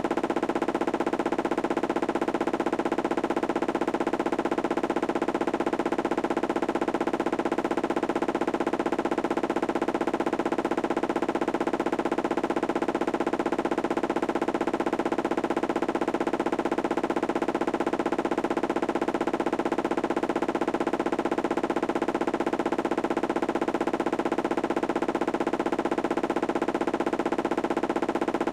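Candy washing machine spinning: a steady hum with a very fast, even rattling pulse that swells and fades every few seconds.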